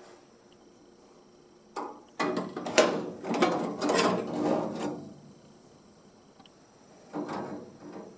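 A clatter of knocks and rattles from hard objects being handled in a workshop: one knock about two seconds in, a busy run of about three seconds right after it, and a shorter clatter near the end.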